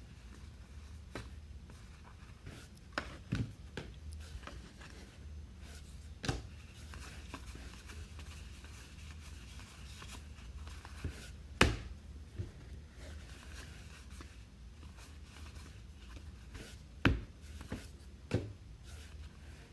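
Trading cards and packs being handled on a table: scattered light taps and knocks, two of them sharper than the rest, over a low steady hum.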